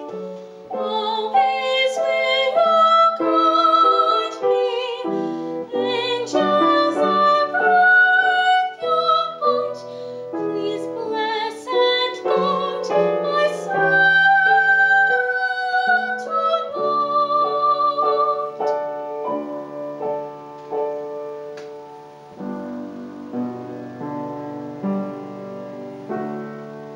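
Young teenage girl singing a classical art song in a trained voice with vibrato, to piano accompaniment. The voice stops about two-thirds of the way through, and the piano finishes alone, growing softer.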